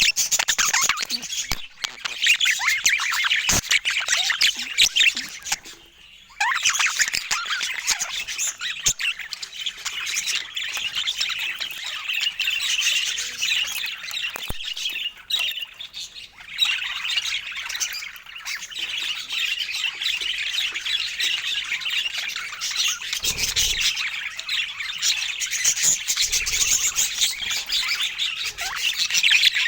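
Budgerigars chattering: dense, fast twittering and warbling calls, with two brief pauses.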